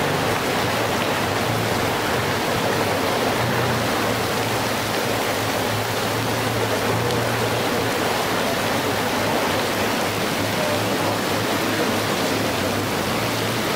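Heavy rain pouring onto a flooded pavement, with water gushing up out of overwhelmed storm drains: a steady, even rush of water. The storm drainage cannot cope with the downpour.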